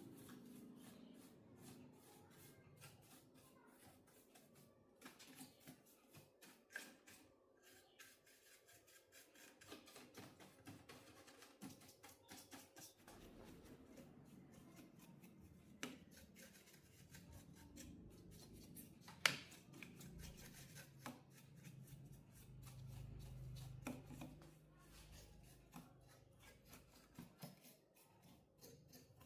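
Faint scraping, rubbing and light clicking of hands working on the parts of a TV being taken apart, with one sharp click about nineteen seconds in.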